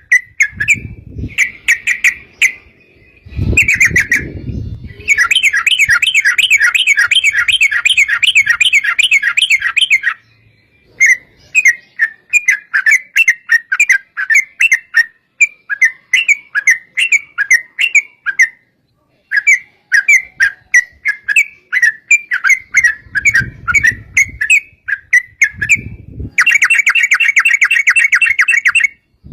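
Yellow-vented bulbul (trucukan) singing: a steady run of quick, bubbly chirping notes, broken by two long, fast rattling trills, one lasting about five seconds early on and one near the end. A few short low rumbles sound under the song.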